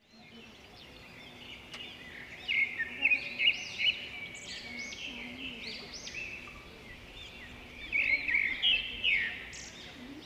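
Birds chirping in the trees, many short calls overlapping, loudest in two bursts about two and a half and eight seconds in.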